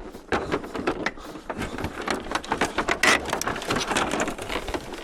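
A dense, irregular run of small clicks and rattles, with a brief louder clatter about three seconds in.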